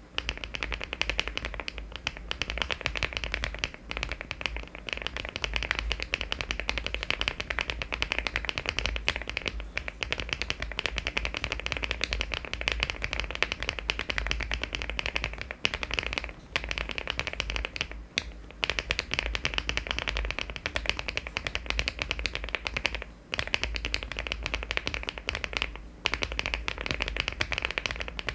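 Fast, continuous typing on a LEOBOG Hi75 aluminium-case mechanical keyboard with HMX switches and Cherry-profile keycaps, many keystrokes a second. There are brief pauses about 4, 16, 18, 23 and 26 seconds in.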